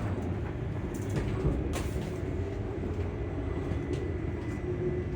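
Inside a ScotRail Class 385 electric train in motion: the traction motors hum steadily over the low rumble of the running gear. A thin, steady high-pitched whine comes in about two seconds in.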